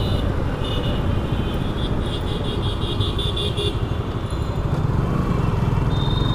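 Suzuki Gixxer motorcycle running under way in city traffic: a steady engine and road rumble, with high-pitched tones over it from about half a second in to nearly four seconds in.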